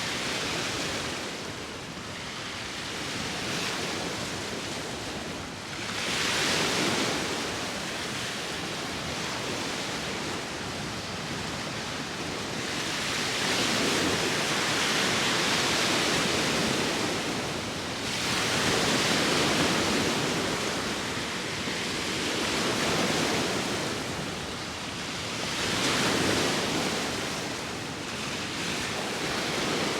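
Sea waves breaking and washing in, in slow surges that swell and fade every few seconds, with wind.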